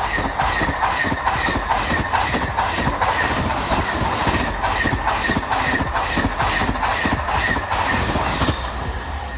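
Al Boraq double-deck high-speed train passing close by, its wheels clacking over the rails in a steady rhythm of about two or three clacks a second over continuous running noise.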